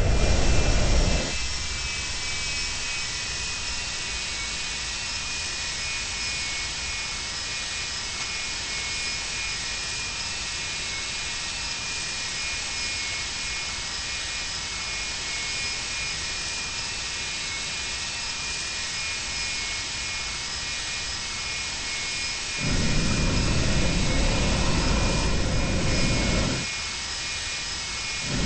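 Boeing 737-200 cabin sound: the Pratt & Whitney JT8D turbofans' steady high whine over a constant rush of noise. A heavier low rumble comes in for about a second at the start and again for about four seconds near the end.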